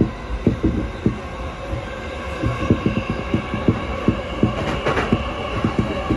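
Electric passenger train running on the rails, heard from inside the car: a steady rumble and hum with many short, irregular clacks and thumps from the wheels and track, and a sharper click about five seconds in.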